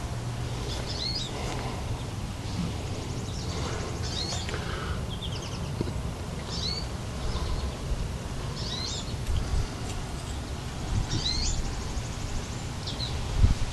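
A songbird singing short, high chirping phrases, repeated about every second or so, over a steady low rumble.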